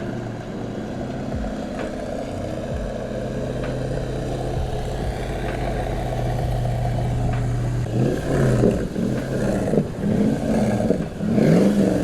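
Toyota 4Runner's 2UZ-FE 4.7-litre V8 idling steadily through a side-exit exhaust with the resonator removed, then revved in several quick blips during the last third.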